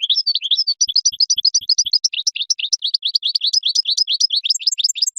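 Goldfinch singing: a fast, unbroken run of short twittering notes, about eight a second, that cuts off suddenly at the end.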